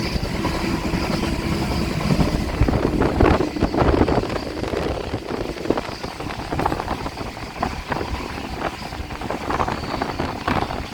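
Running noise of a moving train heard from on board: a steady rumble with irregular rattles, louder for a couple of seconds about three seconds in.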